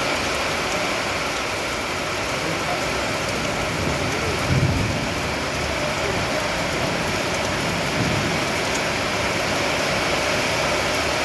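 Heavy rain falling steadily, a dense even hiss of drops on surfaces. A brief low rumble comes about halfway through, with a smaller one later.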